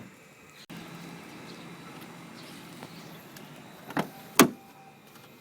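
Rear door of a 1999 Mitsubishi Lancer being opened: two sharp clacks about half a second apart, roughly four seconds in, the second louder, as the handle and latch release.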